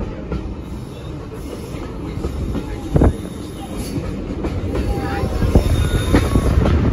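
Heritage railway passenger carriage running along the line, heard from an open carriage window: a steady rumble of wheels on rail with clicks over the rail joints, one sharp click about three seconds in. The rumble grows louder towards the end.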